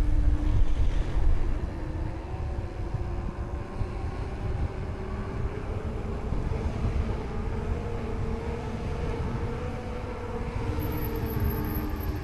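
DJI electric drive motor of an Amflow e-mountain bike running under pedal assist: a steady whine that drifts slowly up and down in pitch, over a low rumble.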